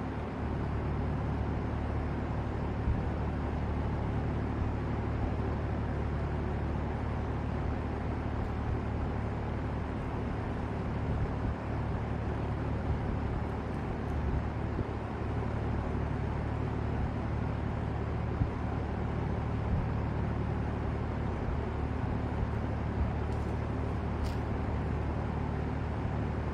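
Vintage LAU Ultra Twenty 20-inch box fan running steadily: a constant rush of air over a low motor hum.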